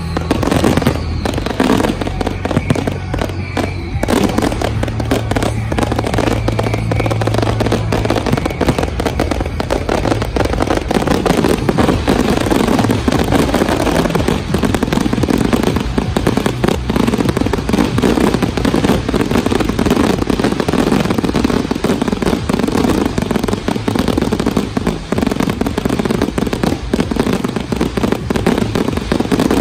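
Daytime fireworks display: a dense, continuous barrage of popping and crackling bangs.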